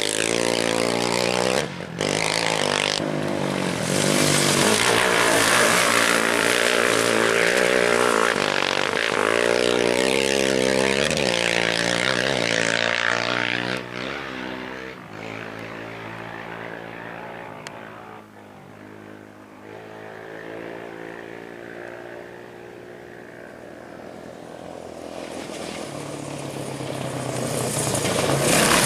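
Off-road race vehicle's engine revving hard, its pitch rising and falling through the gears as it passes, then fading as it moves away about halfway through. Another engine grows louder near the end as the next one approaches.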